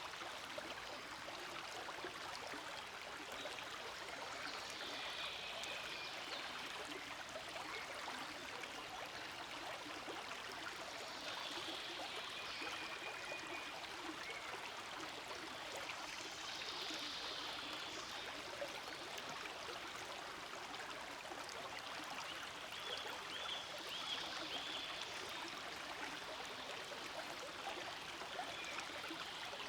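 Forest stream flowing: a steady, continuous rush of running water.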